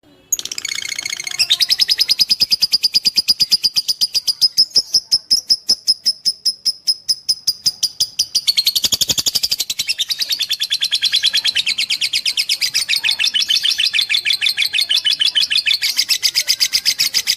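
Lovebird singing a long, unbroken chattering trill of rapid high chirps, about eight to ten a second, the type of sustained 'fighter' song used as masteran to train other lovebirds. About halfway through the chirps turn coarser and spread wider in pitch.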